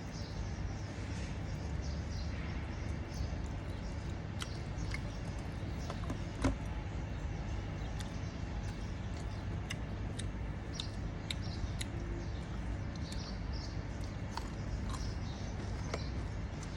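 Small scattered clicks and taps of eating a meal, utensils against dishes with some chewing, over a steady low background hum. One sharper tap comes about six and a half seconds in.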